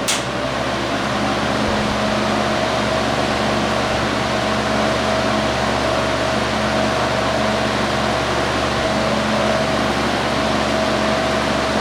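Vintage all-metal Lasko 20-inch box fan with a Westinghouse motor running on high speed in reverse: a steady rush of air from its aluminum blades over a constant motor hum.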